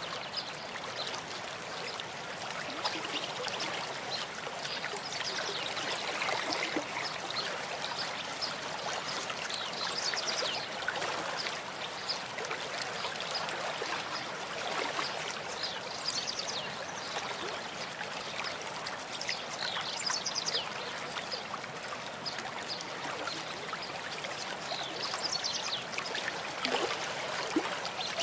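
Small stream of water trickling and gurgling steadily over stones, with many small splashes and bubbles.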